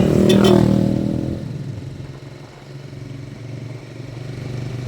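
Motorcycle engine running under way, its revs and loudness falling off over the first second or so, then settling into a steady low hum.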